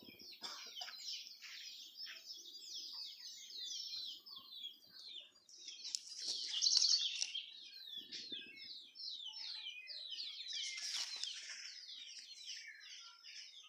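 Many small birds chirping at once, a dense, continuous chorus of short, quick high chirps, swelling louder about halfway through and again near the end.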